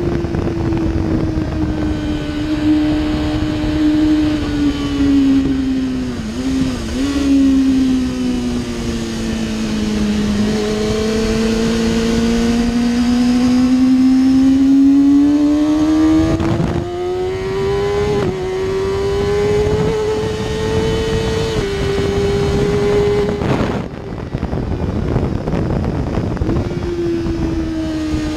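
2007 Kawasaki ZX-6R's inline-four engine through an Akrapovic Evolution exhaust, heard on board at speed, its note rising and falling in pitch with throttle and gear changes, with several abrupt steps and brief breaks in the note. Wind rush runs underneath.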